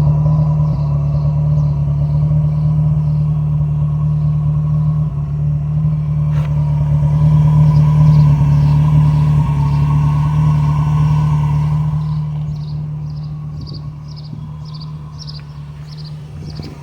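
Rover Metro engine running through its new exhaust, a loud steady drone that holds one pitch and then grows quieter over the last few seconds.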